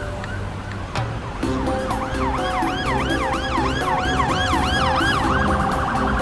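A siren wailing in quick rising-and-falling sweeps, about two or three a second, that starts about two seconds in and switches to a faster warble near the end, over background music.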